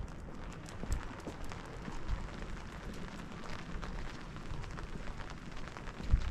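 Steady rain with many sharp drop ticks. A few dull low thumps stand out, the loudest near the end.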